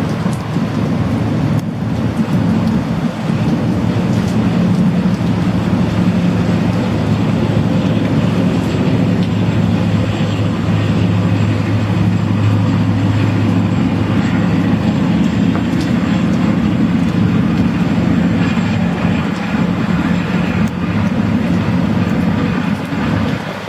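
Kvaerner Fjellstrand FlyingCat 40 m high-speed catamaran ferry running at speed: a loud, steady low drone from its diesel engines and KaMeWa waterjets over a rush of wind and water noise. It eases slightly near the end.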